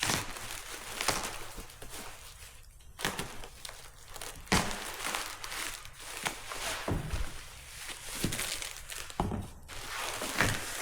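Packing paper crinkling and rustling as a carbon-fibre fender is unwrapped by hand, with a few knocks and thumps of the part being handled.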